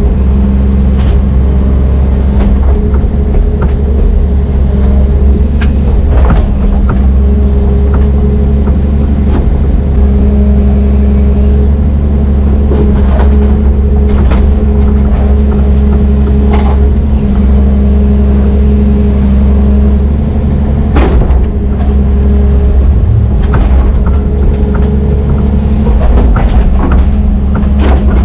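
Diesel engine of a Brøyt X21 excavator running steadily under load, with scattered knocks and clanks over it.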